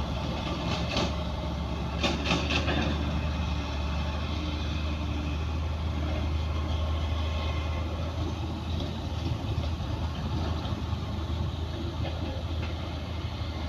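Heavy diesel engine of earthmoving machinery running steadily at low revs, with a few short knocks about a second in and again around two seconds in.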